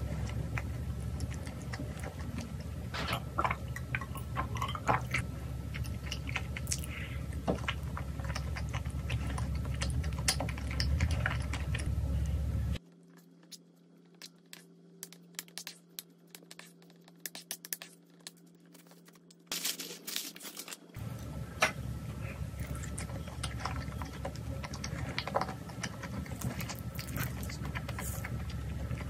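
Close-miked chewing of spicy tteokbokki, with small clicks of chopsticks and bowls. In the middle there is a quieter stretch of a wooden spoon scraping and stirring rice into the tteokbokki sauce, before chewing resumes.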